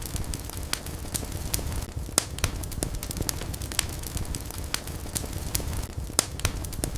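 Wood fire burning in a fireplace, crackling and popping in irregular sharp snaps over a low steady rumble of the flames.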